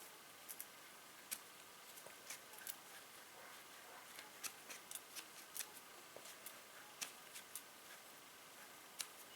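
Faint, irregular small clicks and taps of hydraulic jack parts being handled and fitted together during reassembly with new rubber O-rings.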